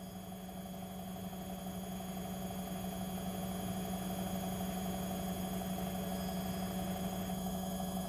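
Front-loading washing machine running with a steady hum that grows gradually louder.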